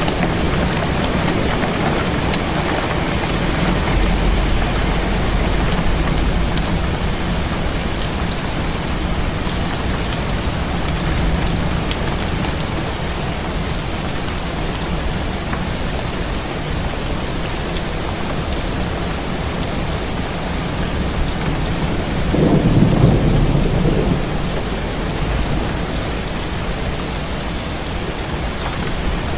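Heavy rain falling steadily, with low rumbles of thunder; a louder rumble swells and fades about three-quarters of the way through.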